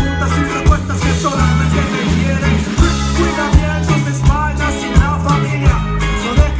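Live band playing an upbeat Latin song: a pulsing bass line under regular drum hits, with a wavering lead melody on top.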